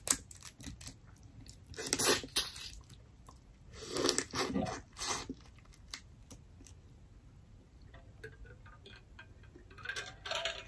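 Close-miked eating of boiled lobster: crunching bites and wet chewing, with the loudest crunches about two seconds in and again around four to five seconds. Scattered small clicks come between them. Near the end there are a few gulps from a water bottle.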